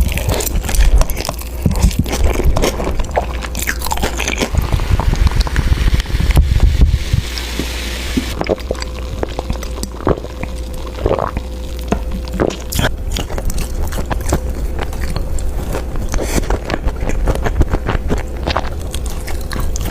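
Close-miked eating: crunchy bites and chewing, a dense run of irregular crunches and wet clicks with a low thumping underneath. A faint steady tone sounds for several seconds in the middle.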